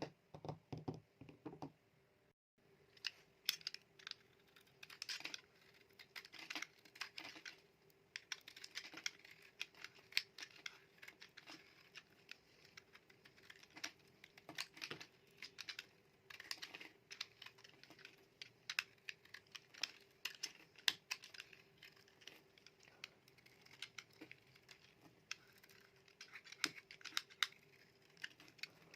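Dry colored soap being cut with a knife: a long run of crisp crackling and clicking as the blade cuts through, many short sharp snaps in quick succession.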